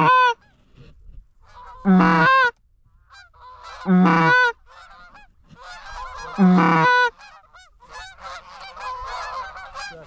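Canada goose honking: loud, close two-note honks about every two seconds, each breaking from low to high, over a growing chorus of many geese honking and clucking as a flock comes in.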